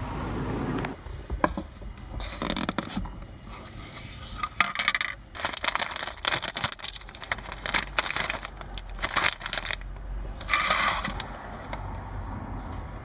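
Packaging rustling and crinkling in irregular bursts of handling noise, over a faint steady high tone.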